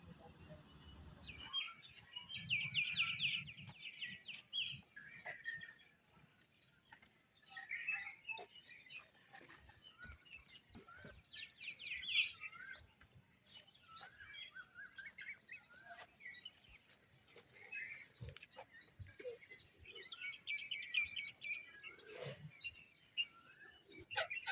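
Several small birds chirping, with quick trills every few seconds.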